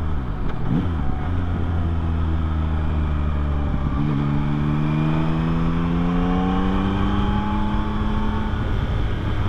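A 2024 Yamaha MT-09's inline three-cylinder engine is heard on the move with wind noise. The engine note breaks briefly about four seconds in, then its pitch climbs slowly as the bike pulls.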